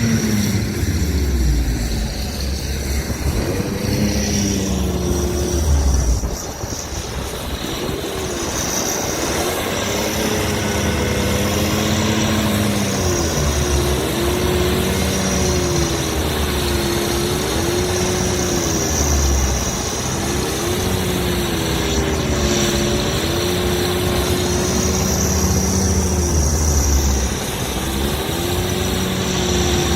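Kirovets tractor's diesel engine working hard, its pitch rising and falling again and again as the load and revs change. A heavy low rumble swells and drops with it.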